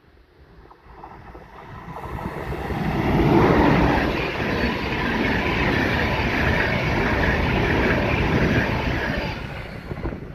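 Electric locomotive-hauled EuroCity passenger train passing: the rush of wheels on rail swells over a couple of seconds and then runs on steadily as the coaches go by.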